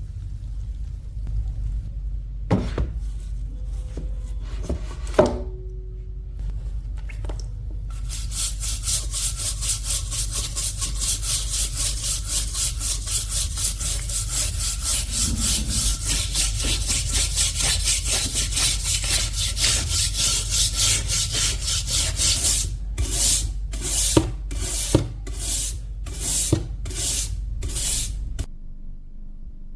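A hand tool rasping back and forth in quick, even strokes, like sawing or filing, after a few knocks. Near the end it slows to about seven separate strokes, over a steady low hum that stops shortly after.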